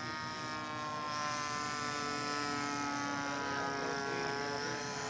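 Radio-controlled scale model airplane's engine buzzing steadily as it taxis, its pitch wavering slightly.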